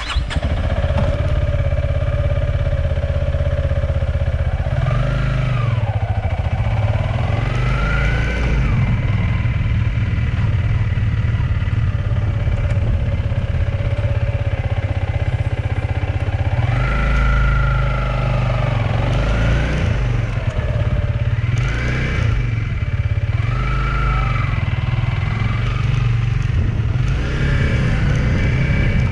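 Motorcycle engine running under way, its pitch rising and falling several times as it revs and eases off, over a strong, steady low rumble.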